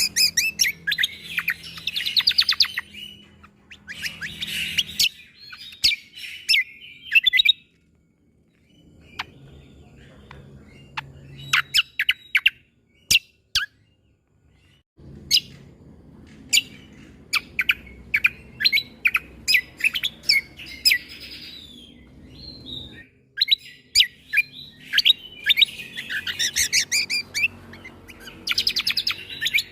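Cucak kombo (kecial kombok) songbird singing: loud, sharp, abrupt 'shot' notes mixed with fast chattering and warbling phrases, in bursts with brief pauses. A faint low hum sits beneath the song.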